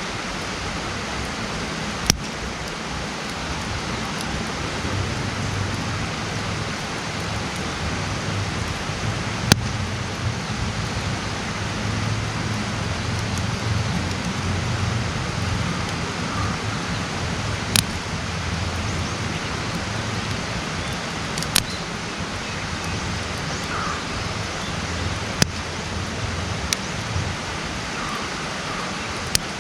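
Wood campfire burning with a steady hiss, broken by sharp single pops of crackling wood, about seven of them spread unevenly through the stretch. A low rumble swells in and fades out through the middle.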